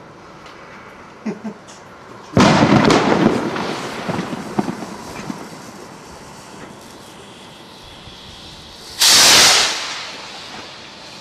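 Garden firework going off: two small pops, then a sudden loud rush of hissing and crackling a couple of seconds in that fades over several seconds. Near the end comes a second short, loud, hissing burst.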